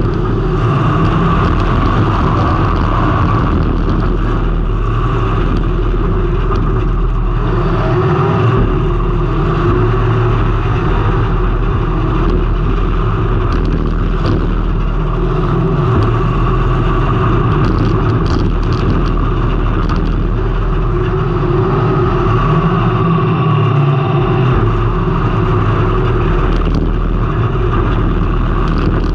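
Race car engine running hard at speed, heard through a camera mounted on the car, with the note easing and picking up again twice as the driver lifts and gets back on the throttle.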